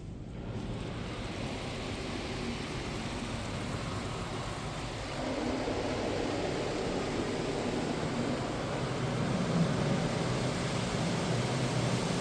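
Automatic car wash machinery running with a steady rushing noise that grows louder about five seconds in.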